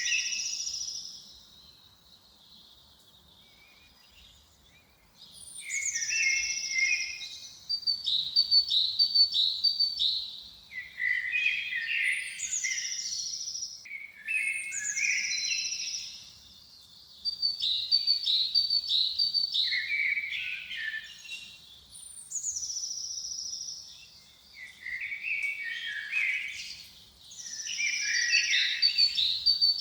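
A songbird singing the same complex high-pitched phrase over and over, every few seconds. Each phrase opens with a falling whistle, then runs into rapid trills and lower twittering notes, with a quiet pause of a few seconds near the start.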